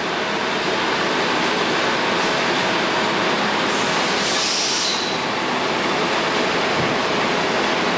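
Steady, loud machine-shop background noise, an even rushing din, with a brief high hiss of air about four seconds in.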